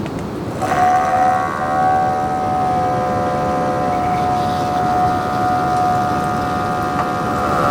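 Steady rain. About half a second in, a chord of several held tones joins it and sustains.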